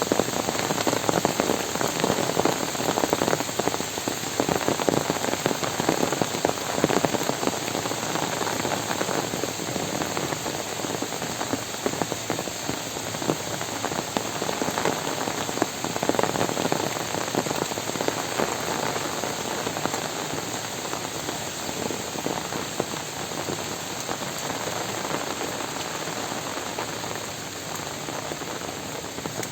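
Heavy rain falling, a dense steady patter of countless drops striking surfaces, a little heavier in the first half and easing slightly near the end.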